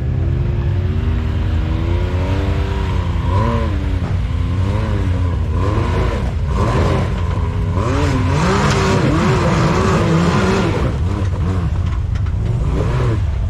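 Off-road 4x4's engine revving up and down in repeated throttle blips while trying to climb a rock ledge. A harsher rush of noise comes in a little past the middle.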